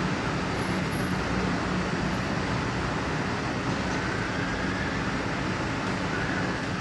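Steady urban road-traffic noise, an even rumble and hiss with no breaks. Faint brief whistles sit under it about midway and near the end.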